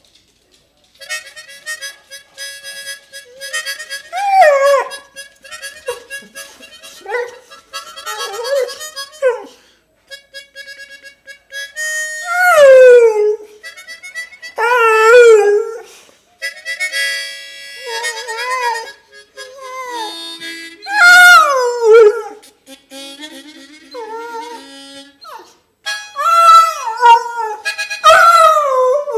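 A dog howling along to a harmonica played bluesy: repeated long wails that slide downward in pitch, louder than the harmonica's steady chords and notes underneath.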